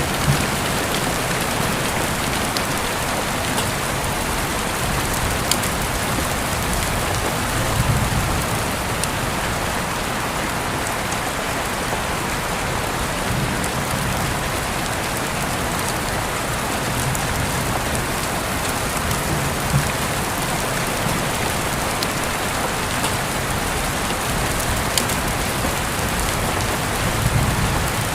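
Steady rainfall, an even hiss with individual drops ticking through it. A few brief low thuds stand out, about eight seconds in and again near the end.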